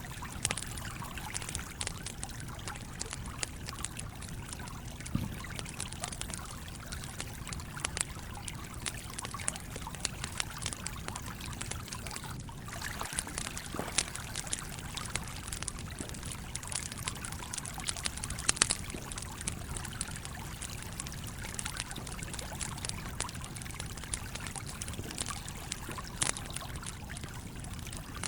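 A stream flowing steadily, with a campfire crackling on top in scattered small pops and a few louder ones spread through.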